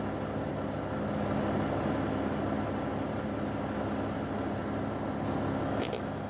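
A truck's diesel engine running with a steady low hum, heard from inside the cab, with a short click near the end.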